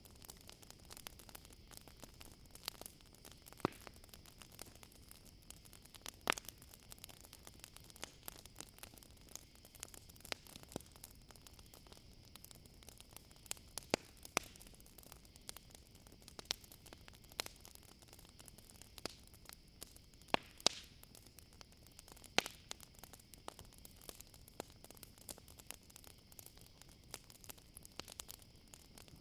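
Campfire crackling, with irregular sharp pops and snaps from the burning wood over a soft hiss. A steady high-pitched insect trill, crickets, runs underneath.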